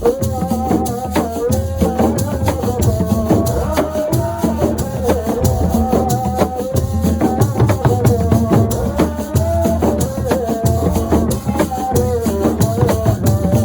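Assiko percussion music: a fast, even rhythm of rattles and drums over a melodic line that steps up and down in pitch.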